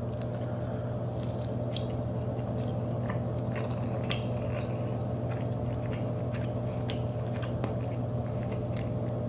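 A person chewing bites of soft-breaded fried popcorn chicken, with short wet mouth clicks scattered throughout. A steady low hum runs underneath.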